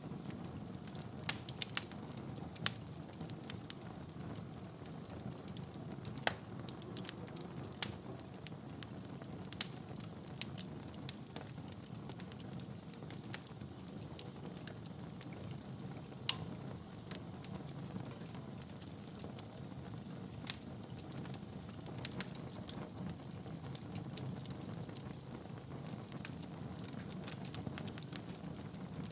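Wood fire burning in a fireplace: a steady low rumble of flames with irregular crackles and occasional sharper pops of the burning logs.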